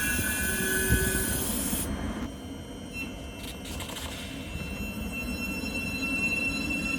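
A train running through the station, its wheels squealing for the first second or so; the noise falls away sharply about two seconds in, leaving a lower rumble and a faint steady high whine.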